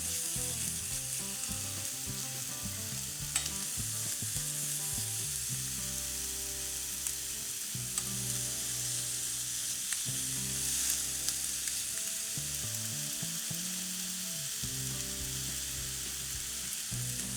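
Marinated chicken thigh pieces sizzling as they fry in a non-stick frying pan on medium heat: a steady hiss with a few faint ticks.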